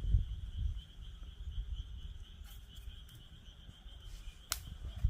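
Wood fire in a fire pit crackling, with a few sharp pops, the loudest near the end, over a steady high-pitched chorus of calling frogs and a low rumble.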